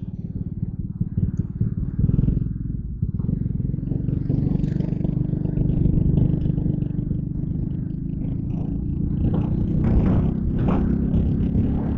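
Yamaha Crypton R motorcycle's single-cylinder four-stroke engine running steadily under way.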